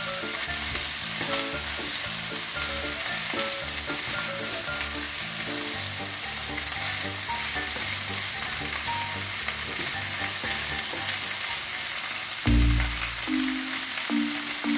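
Bamboo shoot strips and onion sizzling in a hot frying pan as they are stirred with a wooden spatula, a steady frying hiss. Background music plays underneath, louder from about twelve seconds in.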